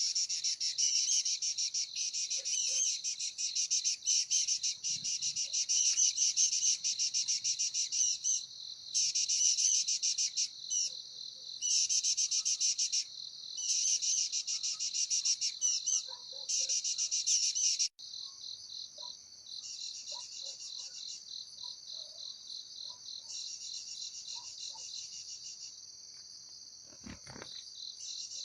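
Insects trilling: a fast, high, pulsing buzz in bouts of a few seconds with short gaps. About two-thirds of the way through it changes suddenly to a quieter, steadier trill.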